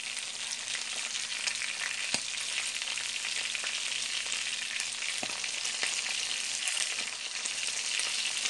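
Chicken necks frying in hot oil in a small pan, a steady sizzle, with a few light clicks as metal tongs turn them.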